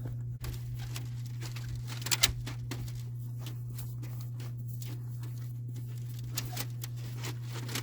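Roll of plastic snow fence being unwrapped and unrolled: scattered crinkling and ticking of the plastic, over a steady low hum.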